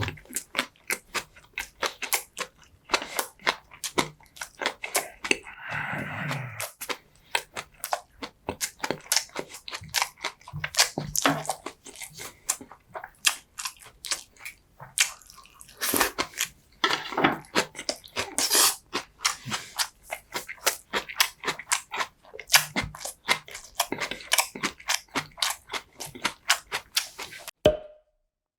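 Close-miked chewing and mouth sounds of a person eating, a dense irregular run of wet clicks and smacks, with a longer smeared mouth sound about five seconds in. The sound drops out abruptly for a moment near the end.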